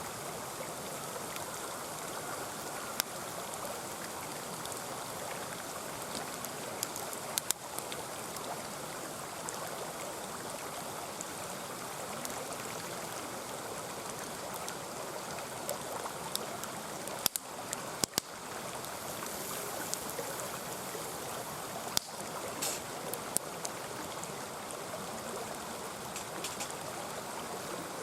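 Mountain stream babbling steadily, with the sharp crackles and pops of a wood campfire breaking through now and then, several of them close together in the second half.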